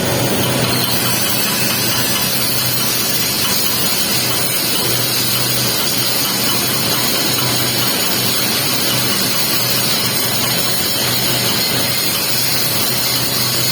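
Electric welding arc crackling and hissing steadily as the capping pass is laid on a pipe joint, with a low hum that comes and goes.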